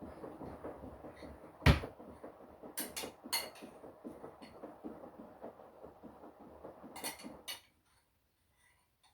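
Washing machine drum turning with wet laundry inside, a continuous rumbling clatter. One sharp knock sounds just under 2 seconds in, with lighter clicks after it. The drum stops about three-quarters of the way through, and the sound drops away abruptly.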